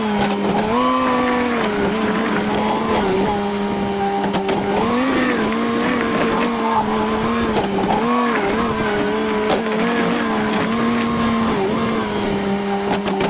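Tractor engine running steadily under load, its pitch sagging and recovering several times, with a few scattered clicks.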